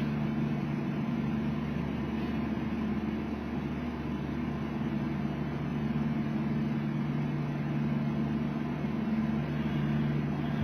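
Steady low mechanical hum with a few unchanging low tones, a machine running in the background.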